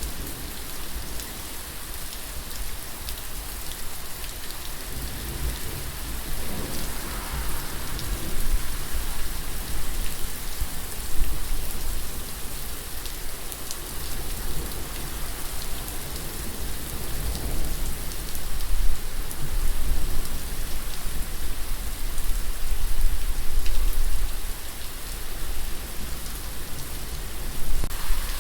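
Steady rain pattering on a surface, with a low rumble underneath that swells and fades several times.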